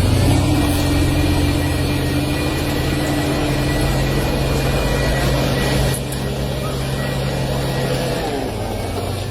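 A motor vehicle running: a steady low engine hum with a faint higher whine over a continuous noisy wash. It dips briefly about six seconds in.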